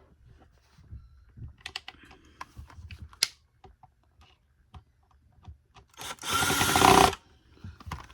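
Plastic vacuum housing parts being handled and clicked together, then a power screwdriver runs in one short burst of about a second, driving a screw into the vacuum's housing.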